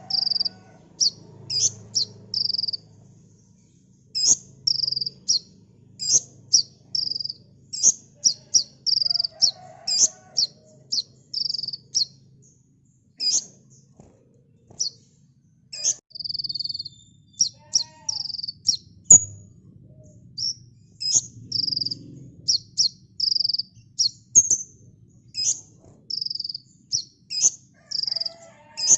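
Kolibri ninja sunbird singing: quick runs of short, high, sharp chirps with brief pauses between runs, over a faint low hum.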